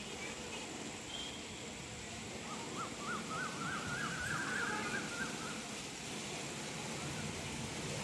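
A bird calling in a quick run of rapid up-and-down notes, from about a third of the way in to past the middle, over a steady outdoor background hiss.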